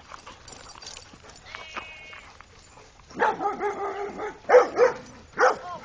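Dogs barking: a faint call early on, then about three seconds in a loud drawn-out howling bark lasting about a second, followed by three short sharp barks.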